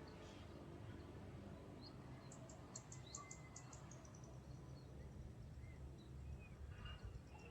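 Faint birds chirping over a low steady rumble, with a short rapid run of high clicks, about seven a second, a little over two seconds in.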